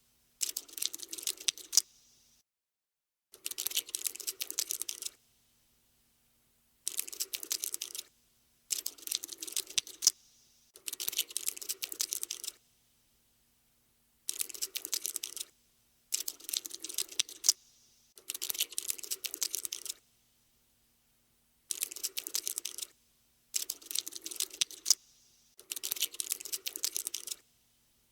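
Cockroach scuttling sound effect: dense, rapid skittering clicks in bursts of one to two seconds, about eleven of them with short silent pauses between.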